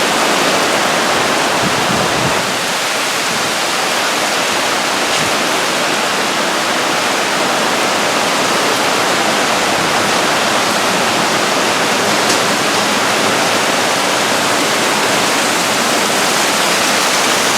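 Torrential rain pouring down in a thunderstorm, a steady, dense rush of water that does not let up.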